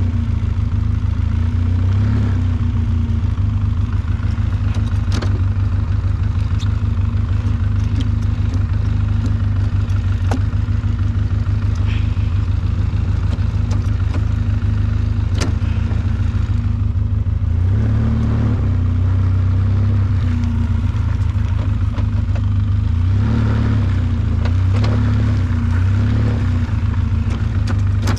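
Engine running steadily with a fast, even pulsing, picking up briefly a few times in the second half.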